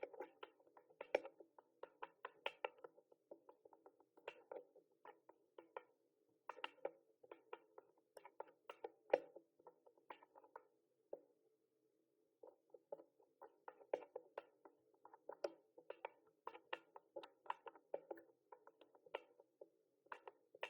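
Mechanical keyboard typing: quick, irregular runs of sharp key clicks, with a short pause a little past the middle before the typing resumes.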